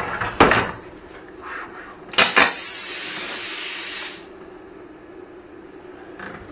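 A loud clunk of metal being handled, then a handheld plasma cutter firing: two sharp clicks and about two seconds of steady hissing that stops abruptly.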